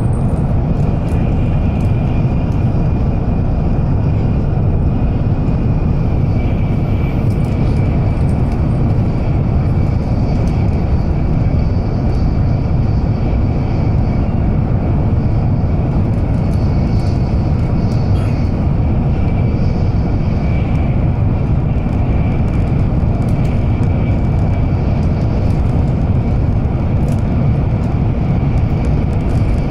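N700-series Shinkansen running at speed, heard inside the passenger cabin: a steady, even low rumble with a faint high steady tone above it.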